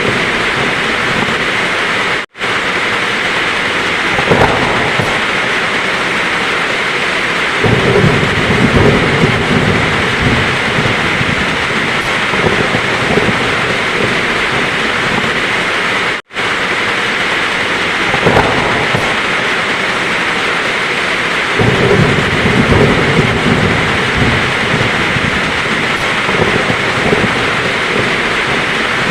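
Heavy rain falling steadily, with thunder rumbling low several times. The sound cuts out for an instant twice.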